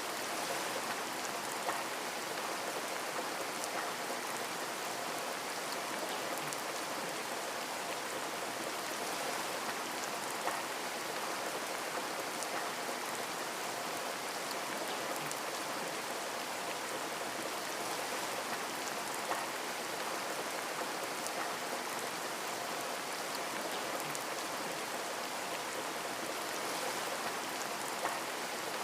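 Steady rain falling, with scattered drops tapping, presented as rain against a window pane.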